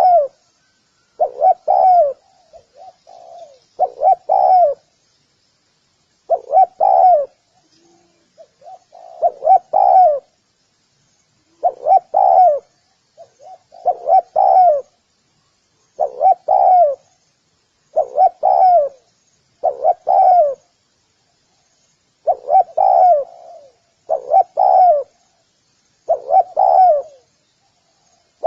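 Spotted dove cooing over and over, a short phrase of coos about every two seconds, some phrases led in by softer notes. Faint high chirps run along in the background.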